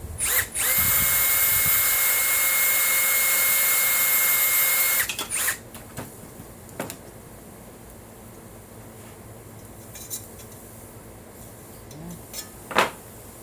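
Electric drill running steadily for about five seconds, drilling a hole through an aluminum brace, then stopping. A few light knocks follow, the sharpest near the end.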